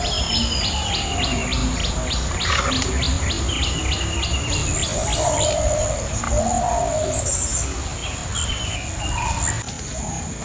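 Village outdoor ambience of birds chirping and calling over insects shrilling in a steady high tone. A regular chirp repeats about three times a second during the first half.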